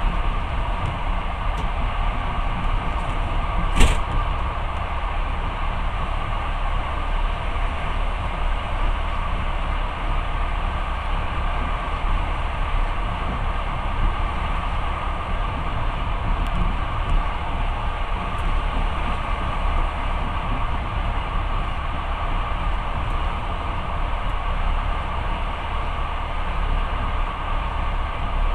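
Passenger train carriage running steadily on the rails, heard from inside: a continuous low rumble with wheel and track noise. There is one sharp knock about four seconds in.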